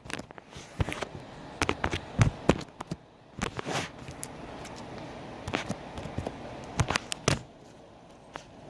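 Homemade slime being squeezed and poked by hand, making irregular crackling clicks and pops.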